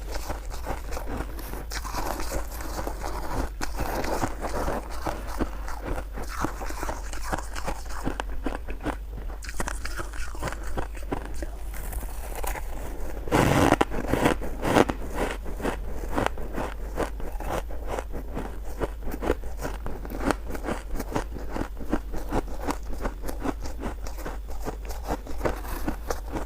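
Close-up crunching and chewing of shaved ice: a steady run of crisp, rapid crunches, with a louder bite about halfway through.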